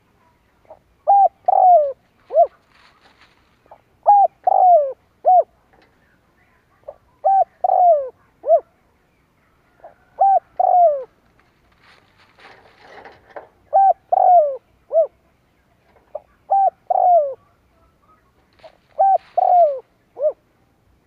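Spotted dove cooing, a phrase of three or four short falling notes repeated about every three seconds, seven times.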